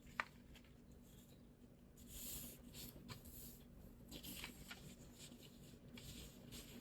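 Faint rustling and crinkling of paper being handled and folded, with small ticks as it is creased and one sharp tap about a quarter second in, over a low steady hum.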